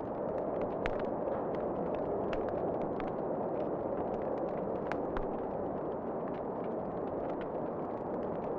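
Wood fire crackling, with frequent irregular sharp pops and snaps over a steady rushing noise.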